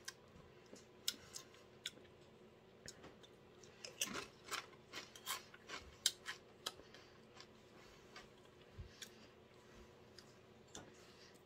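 Mouth chewing a crisp tortilla chip: faint, irregular crunches, densest around the middle and thinning out toward the end.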